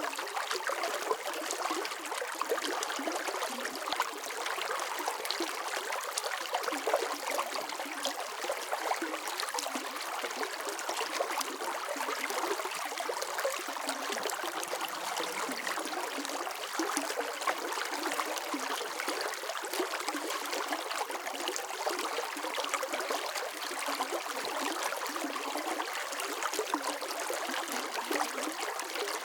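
Water flowing steadily in a stream, an even splashing and trickling hiss with many small droplet ticks and no deep rumble.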